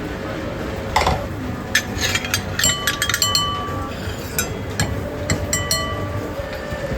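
Dishes and utensils clinking: a knock, then a quick run of sharp clinks, some ringing briefly, over a steady low background noise.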